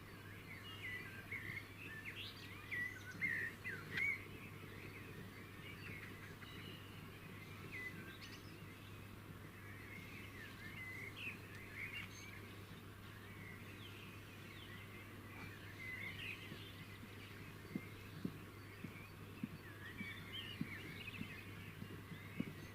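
Small birds chirping and twittering in quick, scattered calls, busiest in the first few seconds, over a steady low hum. A few soft taps come in the last few seconds.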